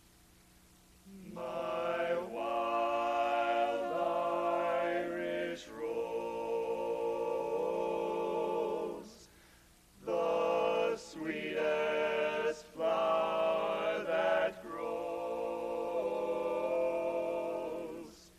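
Barbershop quartet of four male voices singing a cappella in close harmony. The singing starts about a second in, with a short break about halfway through.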